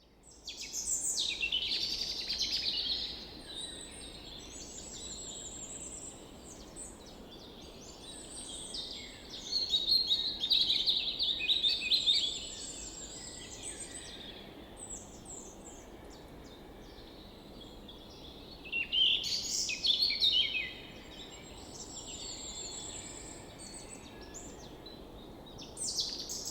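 Songbirds singing and chirping in a mix of short trills and high chirps, with louder stretches of song about a second in, around ten seconds and around twenty seconds.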